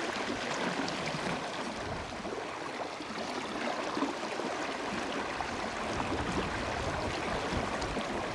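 River water flowing, a steady rushing, with low gusts of wind buffeting the microphone now and then.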